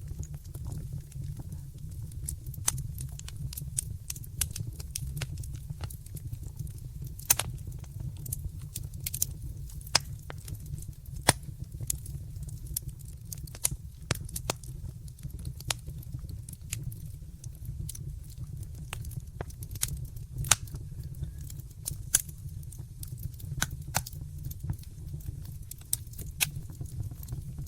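Wood fire crackling in a fireplace: frequent sharp pops and snaps at irregular intervals over a steady low rumble, with a few louder pops about 7 and 11 seconds in.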